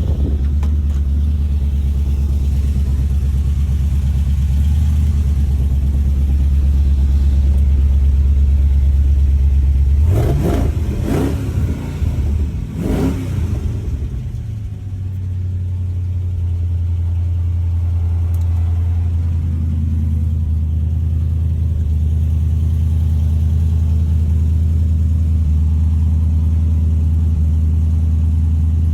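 A 1937 Plymouth Coupe's 350 V8 engine running at a steady idle. About ten seconds in it is revved up and down two or three times, then settles back to idle.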